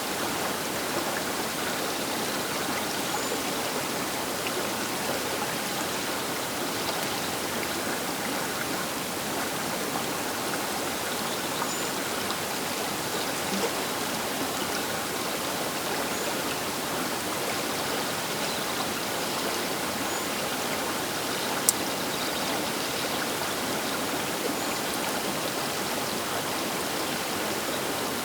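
The Baker River's water rushing steadily, an even, unbroken sound of fast-flowing water. A single sharp click cuts through about three-quarters of the way in.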